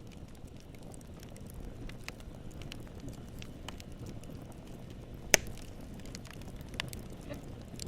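Campfire burning: a steady low rumble of flames with scattered crackles of wood, and one sharp loud pop about five seconds in.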